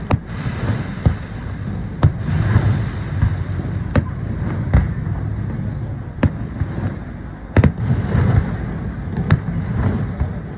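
Fireworks going off: sharp bangs at irregular intervals, roughly one every second or so, over a steady low rumble.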